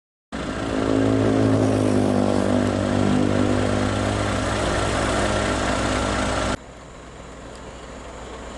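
Heavy truck's diesel engine running with a steady, deep, multi-toned drone. About six and a half seconds in it cuts off suddenly to a quieter, steady engine sound.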